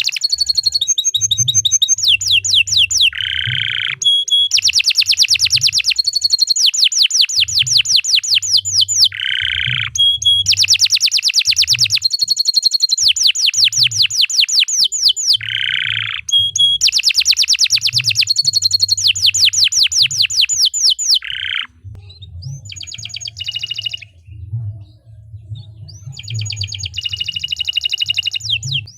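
Domestic canary singing a long, continuous song: fast rolling trills of rapidly repeated high notes, each run lasting a few seconds, broken by short lower buzzy notes. Over the last several seconds the song turns softer and choppier, in short phrases.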